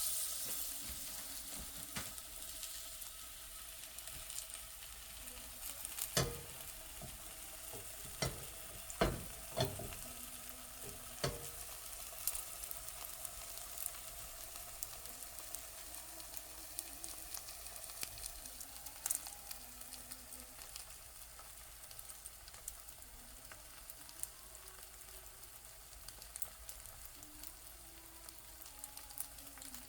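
Porgy frying in hot oil in a cast iron skillet: a steady sizzle, loudest just after the fish goes in. A few sharp knocks come between about six and eleven seconds in.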